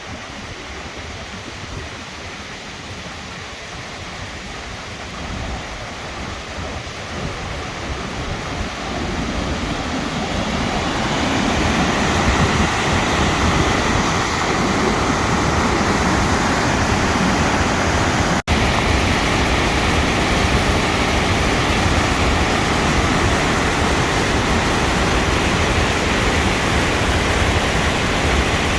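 Rushing floodwater from a swollen river and falls, a steady watery rush that grows louder over the first dozen seconds and then holds steady. The sound cuts out for an instant about two-thirds of the way through.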